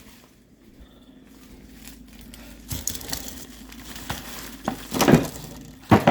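Plastic packaging of frozen food crinkling and rustling as packages are handled, with a few louder knocks and rustles in the second half.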